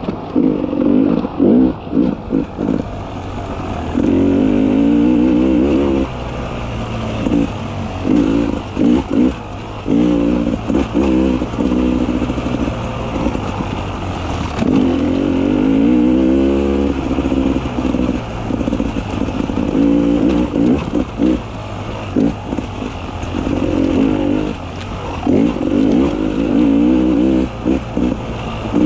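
Beta 300 RR two-stroke enduro motorcycle engine, the throttle snapped open and shut over and over so the revs rise and fall in quick chops, with a few longer pulls.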